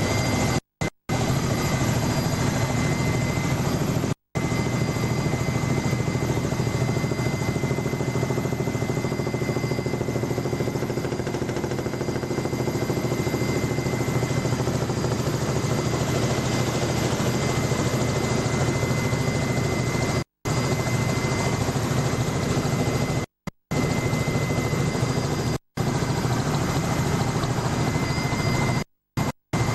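Helicopter noise heard from inside the cabin: a steady drone of rotor and turbine with a thin constant whine on top. The sound cuts out to silence for a moment about half a dozen times.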